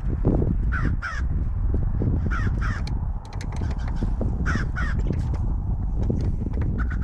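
A bird calls in quick pairs, three pairs in all, at about one second, two and a half seconds, and near the middle, over a steady low rumble and scattered light clicks.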